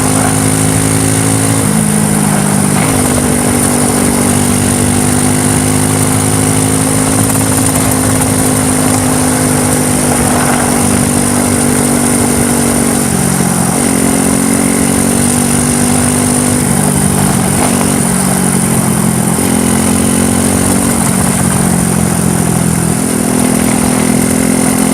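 ATV quad bike engine running continuously, its pitch holding steady and then shifting up or down every few seconds as the throttle changes. A steady high whine runs under it.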